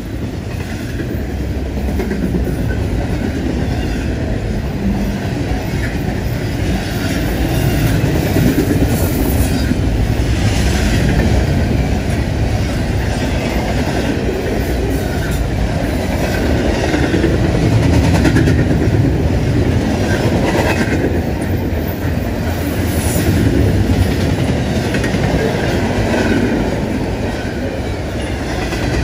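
Double-stack intermodal container well cars rolling past at speed: a continuous loud rumble of steel wheels on rail with a clattering of wheels over the track, swelling and easing a little as the cars go by.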